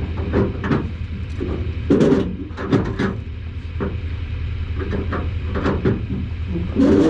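Engine idling with a steady low drone, with scattered knocks and clanks over it.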